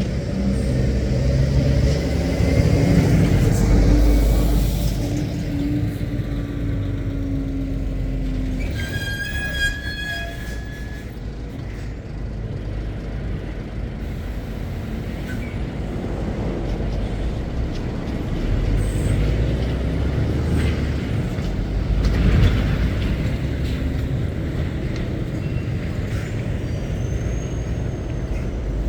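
Heavy goods vehicles' diesel engines running and pulling past, with louder passes a few seconds in and again a little after twenty seconds. A brief high steady tone sounds about nine seconds in.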